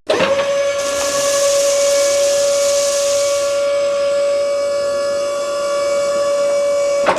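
A single long, steady whistle-like tone at one unchanging pitch, with a hiss over its first few seconds. It starts abruptly and cuts off just before the end, when a lower tone takes over.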